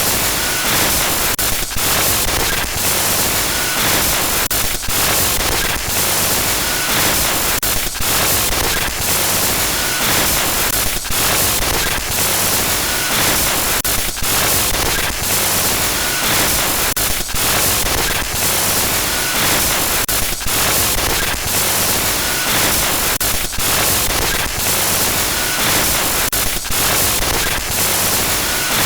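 Loud, harsh static noise from a glitch sound effect, crackling across the whole range and stuttering with brief dropouts and faint chirps every second or two.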